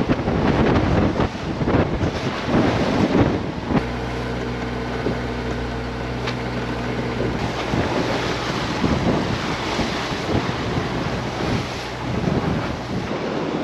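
Wind buffeting the microphone on a sailing yacht at sea, with the rush of water and waves. A steady low hum joins about four seconds in and stops a few seconds later.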